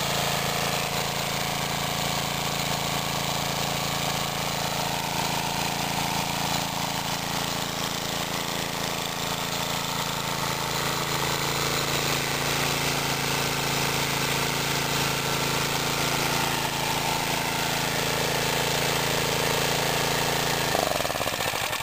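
Mid-1950s Clinton 3 hp single-cylinder gas engine running steadily under load, belt-driving an antique 110-volt generator. Near the end it is choked off and starts to die.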